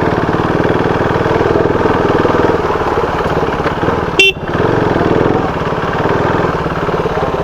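KTM motorcycle engine running steadily under way, with a brief horn toot about four seconds in.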